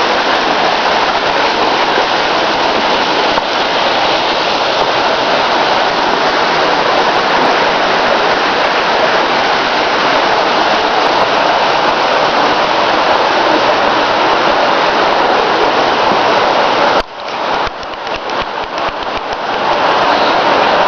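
Waterfall rushing, a loud steady roar of falling water. About four seconds before the end the sound drops suddenly and comes back unevenly, in choppy dips, over a few seconds.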